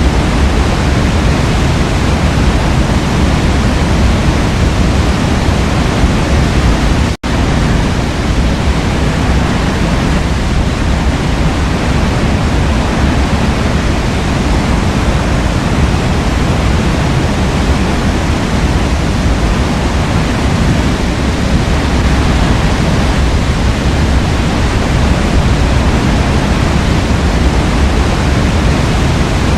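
Steady rushing of a forest waterfall, a dense even roar of falling water. It cuts out for an instant about seven seconds in, then carries on unchanged.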